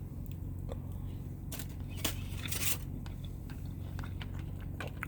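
A few light clicks and scrapes of a fork working tender cooked steak in a lunchbox cooker, over a steady low hum.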